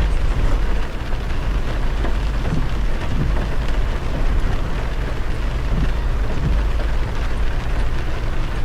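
Heavy rain on a moving car, with tyres hissing on the wet road over a deep, steady road rumble.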